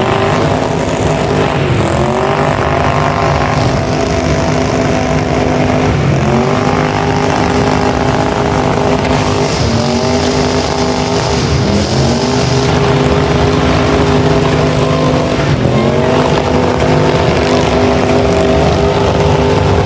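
Burnout cars' engines held at high revs, their pitch climbing and then holding several times, roughly every four seconds, over the steady noise of spinning tyres.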